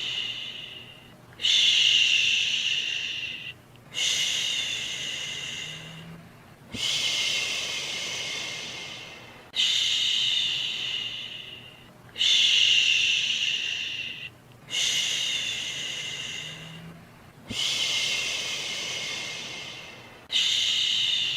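Rhythmic 'shhh' shushing, a soothing hiss for calming a baby to sleep. About eight shushes, one every two and a half to three seconds, each starting sharply and fading away.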